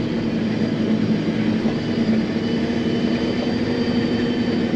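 John Deere self-propelled forage harvester running steadily while chopping corn, heard from inside the cab: a constant drone with a strong steady hum and fainter high whines.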